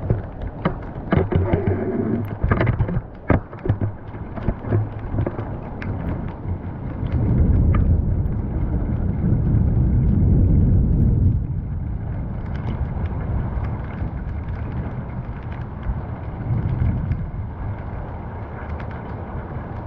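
Rainstorm: close, irregular drop ticks over a steady rain hiss. A deep rumble swells from about seven seconds in and falls away about four seconds later.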